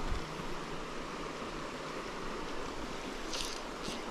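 Steady rush of flowing stream water, with two brief sharp sounds near the end.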